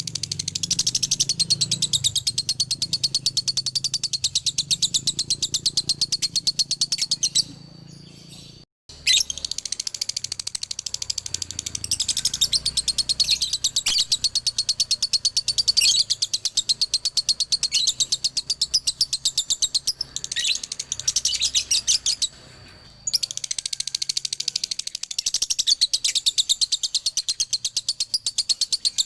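Male lovebird singing its long, rapid 'ngekek' chatter, a fast unbroken string of high chirps. It breaks off twice for about a second.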